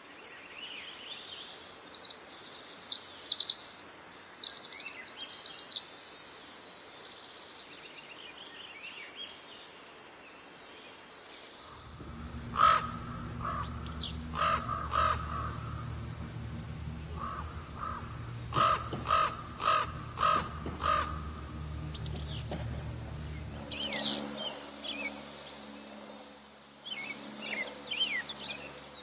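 Wild birds in woodland. First a songbird sings a rapid, high, trilling song for several seconds. Then a crow caws repeatedly, about a dozen harsh caws in bursts, over a low rumble. Near the end, small birds chirp.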